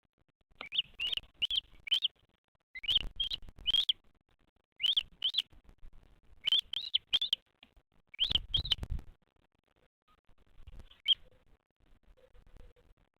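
A bird chirping in quick groups of two to four short notes that rise and fall, with a last lone chirp near the end. Low thumps sound under some of the groups.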